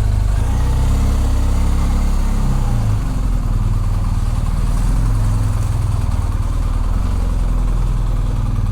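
Motorcycle engine running at low speed, its pitch shifting a little about two to three seconds in, over a steady hiss of wind and road noise.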